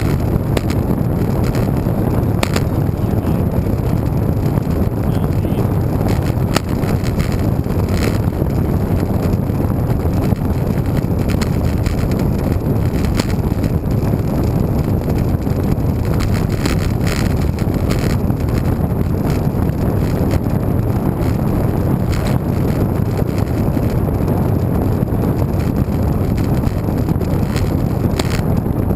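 Steady rush of wind on the microphone of a camera riding along on a moving bicycle, with scattered light clicks and rattles.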